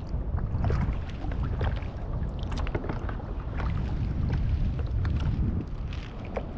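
Sea water slapping and splashing against a fishing kayak's hull, with many small irregular splashes, over a steady low rumble of wind buffeting the microphone.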